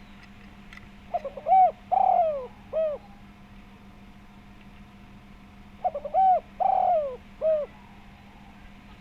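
Spotted dove (tekukur) cooing: two call phrases about five seconds apart, each a few quick short notes, then a longer coo falling in pitch and a short closing note. A steady low hum runs underneath.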